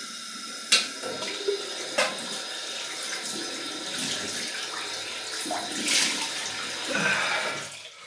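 Tap running into a bathroom sink with water splashing, broken by a couple of sharp knocks. The flow stops just before the end.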